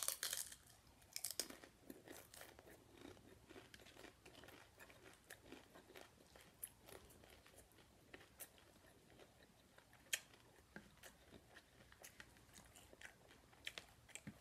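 Close-up chewing of crunchy broken taco shells: faint, irregular crunches and mouth clicks, strongest in a cluster right at the start.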